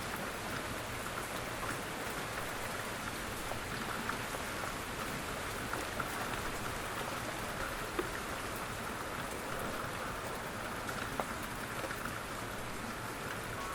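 Steady gentle rain falling on a surface, with scattered individual drips and small ticks of drops landing.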